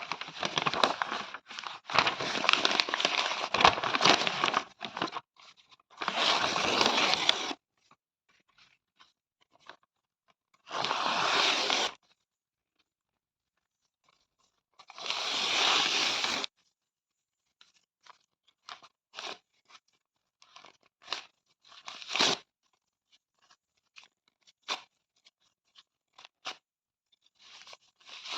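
Paper being torn: a long ragged rip over the first few seconds, then three separate rips of a second or so each with pauses between them. After that come scattered short crackles and small tears, one sharper tear among them.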